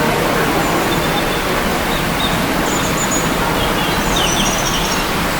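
Steady, loud rushing background noise, with a few faint, short, high-pitched bird calls in the middle.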